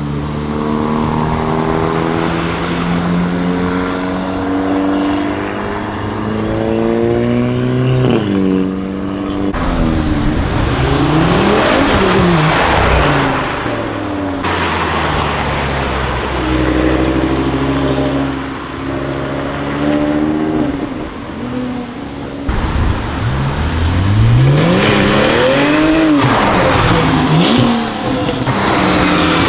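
Modified cars' engines revving hard as they pull away and drive past one after another, the pitch climbing and dropping several times with each burst of throttle.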